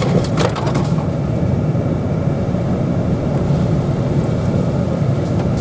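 Pickup truck carrying a camper driving along a forest road, heard from inside the cab: steady engine and tyre rumble, with a few short rattling clicks about half a second in.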